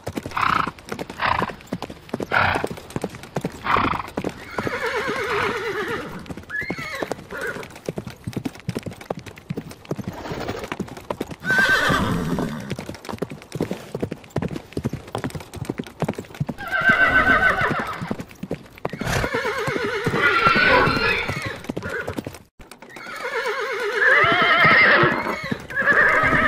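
Horses whinnying several times, long calls with a shaky, wavering pitch, over the clatter of hooves. The hoof clicks are most distinct in the first few seconds.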